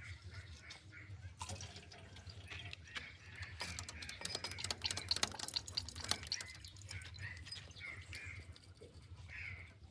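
Liquid dripping and splashing, with a dense run of small irregular clicks and splashes around the middle, over a steady low hum.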